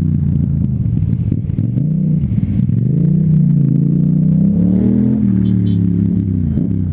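Yamaha MT-07's parallel-twin engine through an aftermarket Akrapovic exhaust, riding through traffic: the revs drop about a second and a half in, climb steadily for a couple of seconds, fall away again around five seconds in, then pick up near the end.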